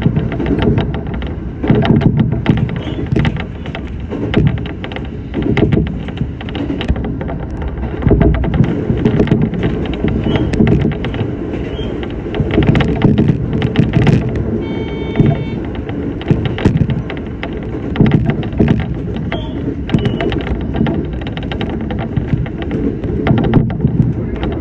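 Shinano Railway SR1-series electric train running between stations, heard from just behind the cab: a steady low rumble of wheels on rail with frequent clicks and knocks from the track, and a brief high tone about fifteen seconds in.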